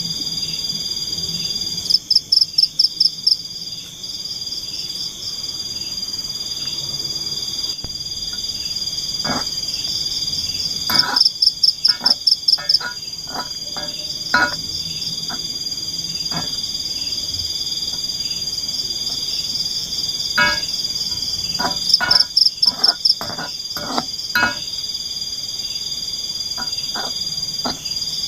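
Forest frogs croaking over a steady high chorus of insects. Runs of rapid, loud croaks come three times, about 2, 11 and 22 seconds in, with scattered single calls between.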